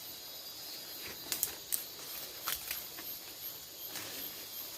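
Tropical forest insects, crickets and cicadas, trilling steadily at high pitch, with a few short sharp crackles between about one and three seconds in.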